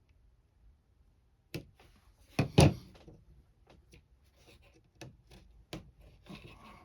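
Knocks and thumps from parts and tools being handled on a work surface: one knock about a second and a half in, two louder thumps close together a moment later, then scattered light clicks and taps.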